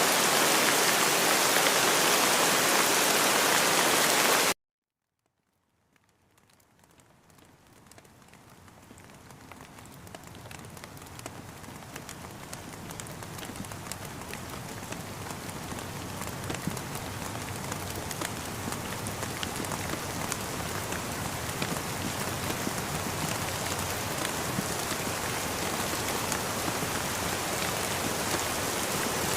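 Steady rain falling, cut off abruptly about four and a half seconds in. After about a second of silence, the rain fades back in slowly over many seconds, with individual drops tapping distinctly, until it is steady again near the end.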